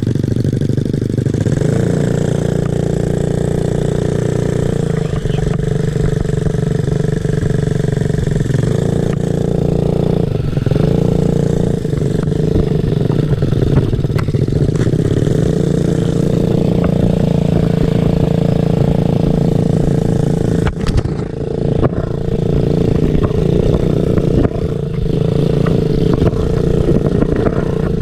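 Small off-road motorcycle engine running steadily under way, its pitch shifting slightly with the throttle.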